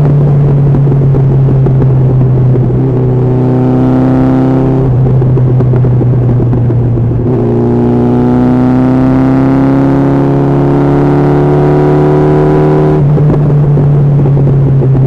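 Honda CB1300SF inline-four engine running under way on the highway: a steady low drone throughout, with a higher engine note that comes in twice and climbs slowly in pitch as the bike pulls, briefly about three seconds in and again for most of the second half.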